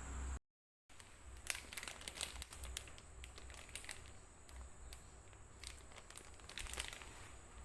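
Faint crinkling and rustling of plastic packaging being handled, with many irregular sharp crackles. A short gap of dead silence comes about half a second in.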